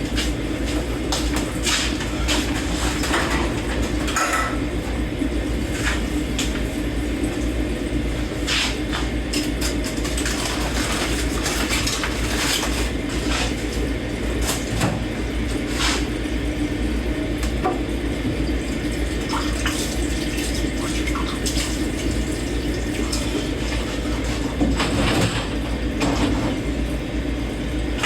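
Hand washing dishes in a kitchen sink: water running steadily while plates and cutlery clink and knock against each other and the sink at irregular moments.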